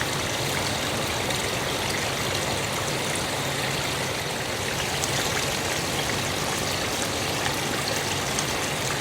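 Water running steadily, a continuous trickling rush like a small brook or garden fountain.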